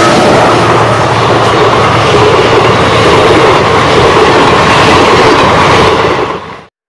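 Passenger train coaches passing close by at speed: a steady loud roar of wheels running on the rails, fading out quickly near the end.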